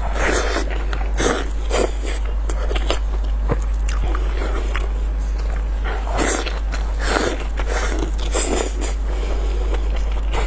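Close-miked person eating: irregular biting and chewing sounds, with several louder bites, over a steady low hum.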